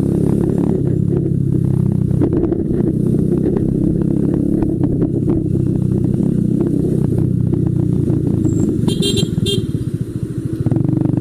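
Motorcycle engine running under way in traffic, steady throughout. About nine seconds in, a brief high-pitched pulsing tone sounds over it.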